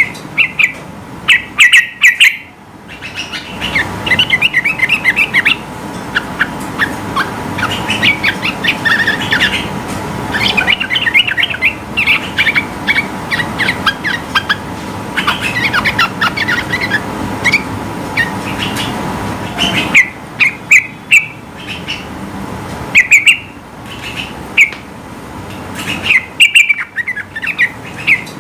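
Yellow-vented bulbul (trucukan) singing loudly: rapid bursts of short, bubbly chirping notes, with dense running chatter through the middle and sharper, separate loud calls at the start and again from about 20 seconds in.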